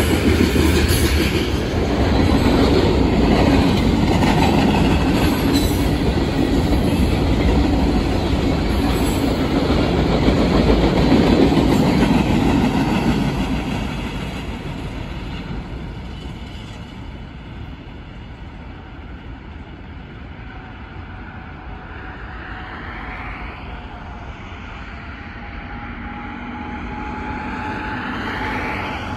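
Freight cars rolling past close by, a loud, steady rumble of steel wheels on rail, then fading away from about 13 seconds in as the end of the train recedes into the distance.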